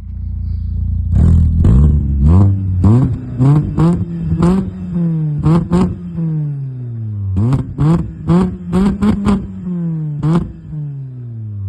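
Car engine revved in repeated quick throttle blips through a 4-2-1 stinger header, straight-through resonator pipe and FOX muffler. The pitch jumps up and falls back about a dozen times, with sharp crackles at the peaks of the blips.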